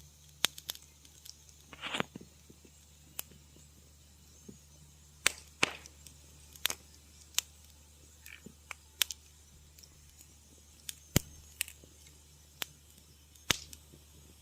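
Wood fire in a fireplace crackling, with sharp irregular pops about once a second over a faint steady low hum.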